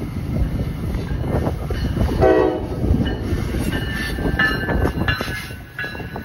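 NJ Transit double-deck commuter train, cab car leading, passing close by: a steady rumble of wheels on rail with clicking, a short horn blast about two seconds in, and high wheel squeal from about three seconds on.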